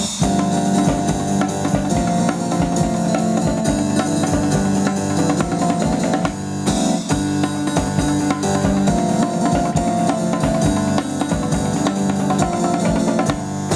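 Live band playing an instrumental passage: electric piano chords over a steady drum beat.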